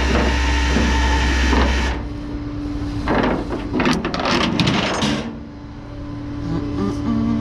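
Rollback tow truck's engine and bed hydraulics running under load, cutting off about two seconds in. A burst of clanks and rattles follows, then the truck idles on.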